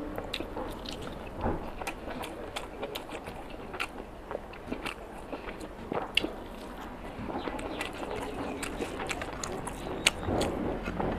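Close-miked chewing with many small wet mouth clicks and smacks as a handful of rice and chicken curry is eaten, with sharper clicks about six and ten seconds in.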